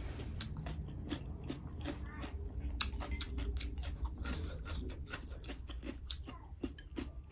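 Close-up eating sounds of a person chewing food and eating with her fingers: many short, wet mouth clicks and smacks over a low rumble.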